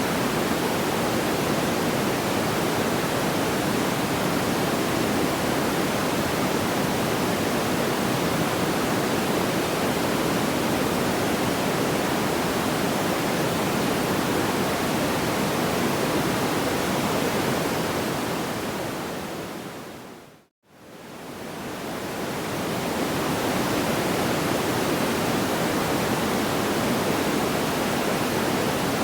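Steady, even rushing noise with no distinct crackles or pops, heaviest in the low-middle range. About twenty seconds in it fades smoothly down to a moment of silence and straight back up, the join of a looped track.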